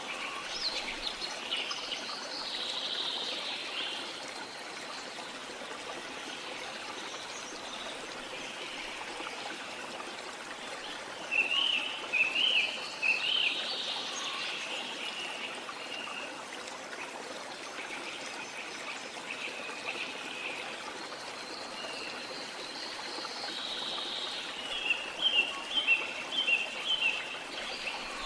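Steadily flowing, trickling stream with birds calling over it. Clusters of quick, loud chirps come about 11 seconds in and again near the end.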